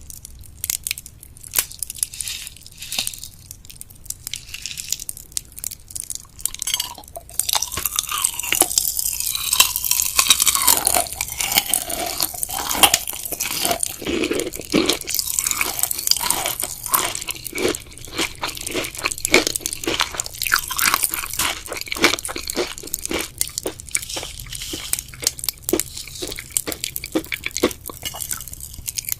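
A person chewing and biting gummy and jelly sweets: a dense run of short crunchy, wet clicks, which gets busier and louder about seven seconds in.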